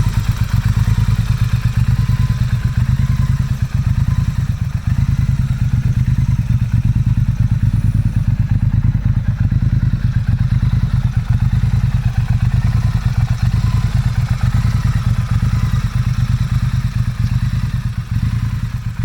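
Motorcycle engine running steadily, with a fast, even exhaust pulse and no revving.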